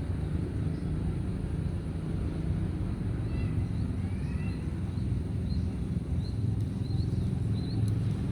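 A steady low outdoor rumble with a small bird calling over it: a few rising chirps, then a run of short upward notes about twice a second in the second half.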